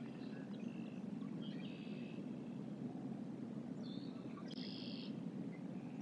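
Small birds calling: a few short, high, trilled calls, the longest two about half a second each, around two seconds in and near five seconds in. Under them runs a steady low background rumble.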